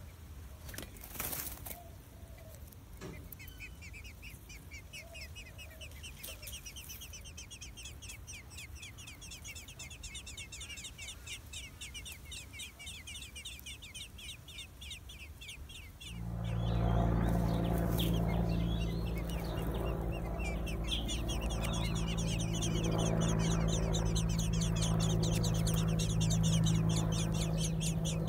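Nestling birds calling in the nest: a fast, continuous string of high, thin chirps. About halfway through, a louder low steady hum comes in underneath.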